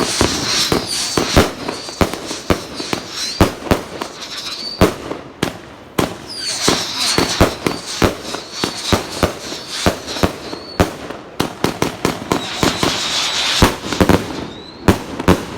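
A 100-shot firework cake ('Dog Race') firing in rapid succession: a string of sharp bangs a few per second at irregular spacing, over continuous crackling and hissing from the bursting shells. The last shots go off near the end.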